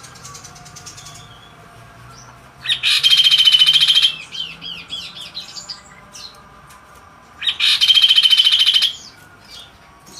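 Kaso-kaso songbird singing: two loud, fast rattling trills of about a second and a half each, a few seconds apart, with softer chirps and short rising notes between them.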